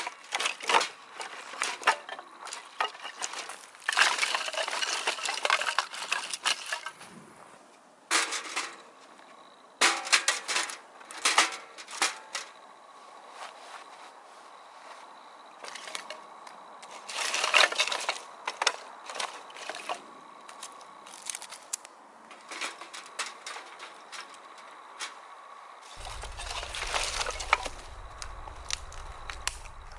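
Clinks, knocks and scraping of metal parts being handled as a folding campfire stand is assembled, in irregular bursts with rustling between them. A low rumble comes in near the end.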